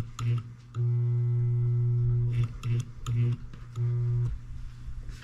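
Wilkemp Jr. Model E solenoid engine's electromagnet humming in on-off stretches, the longest about a second and a half, with a few clicks in between, as the engine balks at starting. The hum stops a little past four seconds.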